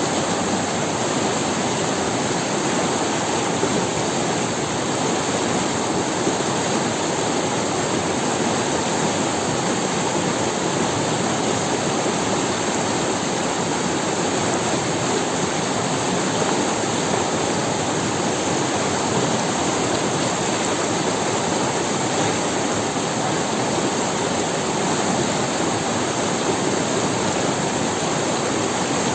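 Steady rushing of a river's water flowing over stones, an even unbroken noise with no change in level.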